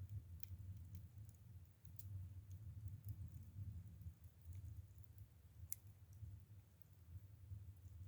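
Faint crackling of a low wood fire's embers: scattered sharp ticks and pops, a clearer one about two seconds in and another near six seconds, over a steady low rumble.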